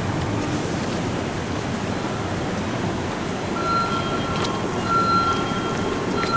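Steady rumbling background noise of vehicles or traffic, with a high electronic beep sounding three times in the second half.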